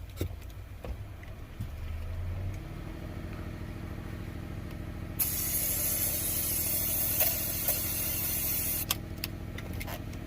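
Aerosol starter fluid sprayed into the boat engine's intake in one continuous hiss of nearly four seconds, starting about halfway through, over a steady mechanical hum.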